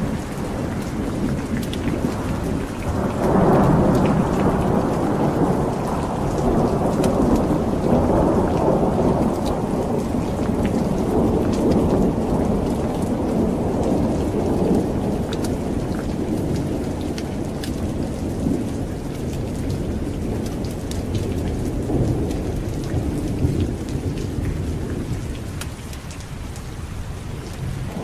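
Steady rain with a long rolling rumble of thunder that swells about three seconds in and slowly dies away over the next twenty seconds or so, with scattered sharp ticks throughout.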